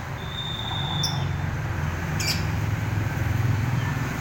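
A few brief, high bird chirps and one short, thin steady whistle over a low, steady rumble that grows a little louder.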